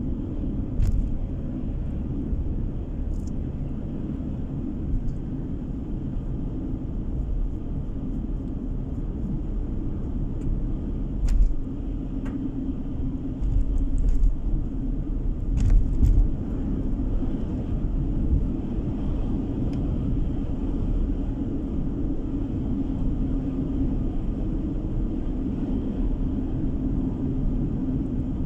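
Steady low road and engine noise inside a moving car's cabin, with a few short knocks scattered through it.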